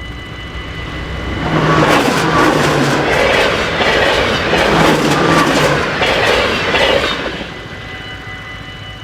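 A train passing over the level crossing, its wheels clacking over the rails in a run of quick beats; it swells in about a second and a half in and drops away about six seconds later.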